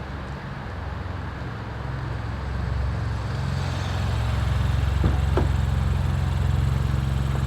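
Ford Fiesta Zetec S EcoBoost engine running through a Cobra cat-back performance exhaust. The engine note grows louder over the first few seconds, then holds steady.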